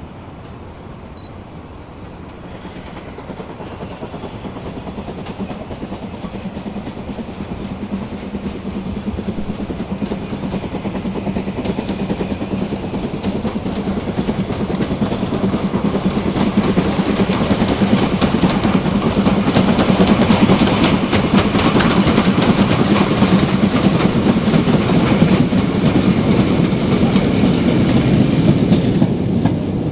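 Steam-hauled train approaching and passing, growing steadily louder for about twenty seconds, with a dense, rapid clatter of wheels on the rails as it comes level, then easing off slightly near the end.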